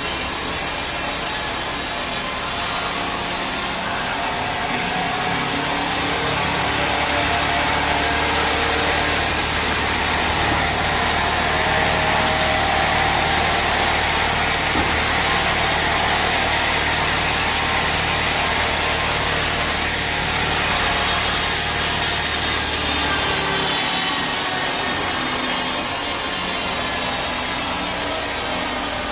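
Sawmill band saw cutting through a teak log: a continuous rasping of the blade through the wood. A low motor hum comes in a few seconds in and drops away a few seconds before the end.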